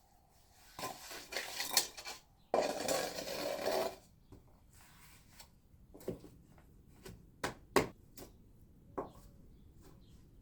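Masonry work on limestone: two stretches of rough scraping, the second louder, followed by a few sharp single knocks, as of stone or tool striking stone.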